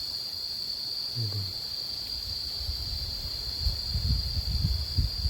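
Steady high-pitched drone of insects. From about halfway in, low gusty rumbling of wind buffets the microphone.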